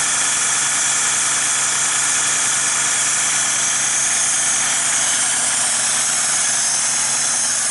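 The Ford Windsor V8 (a 410-cubic-inch stroker) of a 1969 Mustang, fed by Edelbrock Pro Flo 4 fuel injection, idles steadily and evenly. It is warming up after a cold start in about −7 °C air.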